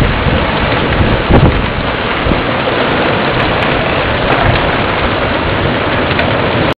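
Heavy rain pouring in a thunderstorm, a loud steady hiss, with a swell of thunder rumbling about a second and a half in. The sound cuts off suddenly just before the end.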